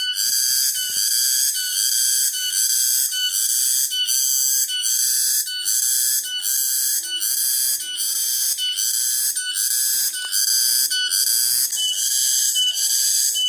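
Cicadas singing, a loud, shrill call that pulses steadily about twice a second.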